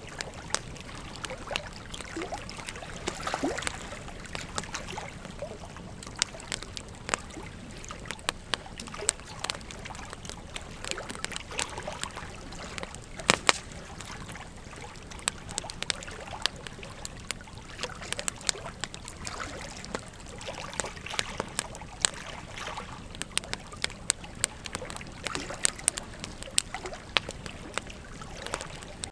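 Wood campfire crackling, with sharp pops and snaps scattered irregularly over a steady hiss; a pair of louder pops about thirteen seconds in.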